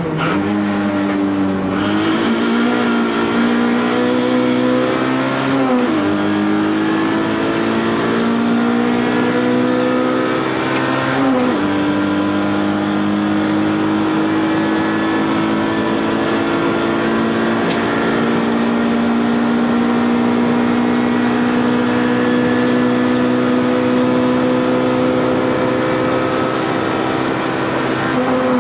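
Toyota AE111 Trueno's 4A-GE 20-valve four-cylinder engine under hard acceleration, heard from inside the cabin. Its pitch drops sharply a few times in the first twelve seconds at gear changes, then climbs slowly and steadily for a long stretch before falling again near the end.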